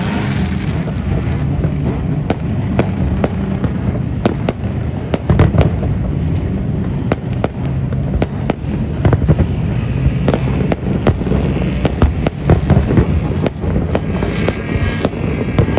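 Fireworks display: an irregular string of sharp bangs and pops over a continuous low rumble.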